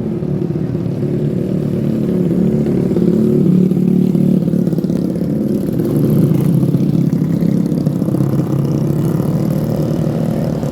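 Diesel locomotive engine running close by, a loud steady low drone.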